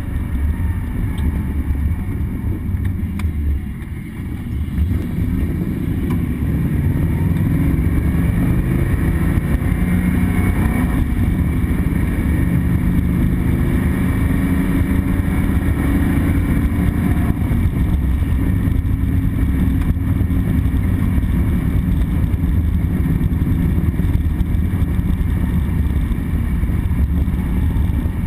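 Ford 302 small-block V8 of a 1976 Mustang II Cobra II, with a four-speed manual, pulling under throttle as the car drives. The level dips about four seconds in, then builds back up and holds steady and loud.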